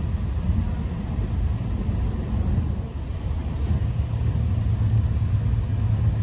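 Keihan electric train running, a steady low rumble.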